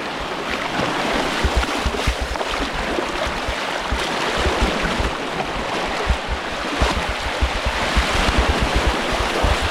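Waterfall stream rushing steadily over rock, loud and continuous, with a low uneven rumble underneath.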